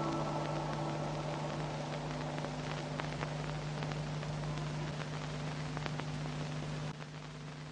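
Ambient background music fading out, leaving a steady faint hiss with a low hum and a few faint clicks; the hum drops away near the end.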